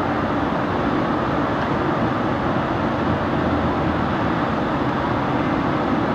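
Steady vehicle engine and road noise with no siren sounding.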